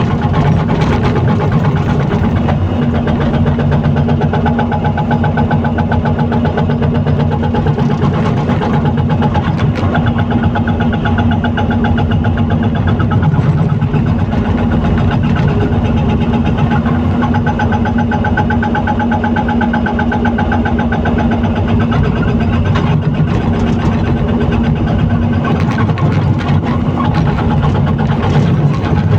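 Excavator's diesel engine running steadily at an even speed, with a constant pitch and level throughout.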